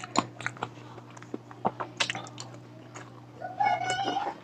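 Close-miked mouth sounds of a man chewing balut (boiled fertilised duck egg): wet chewing and lip smacks in short clicks, with a brief pitched sound near the end.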